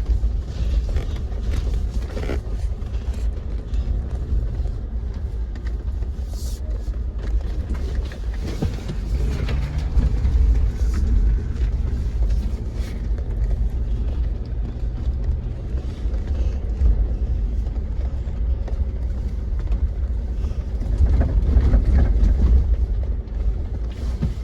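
Jeep driving slowly over a rough dirt trail: a steady low rumble of engine and tyres, with scattered knocks and rattles as it goes over the bumps.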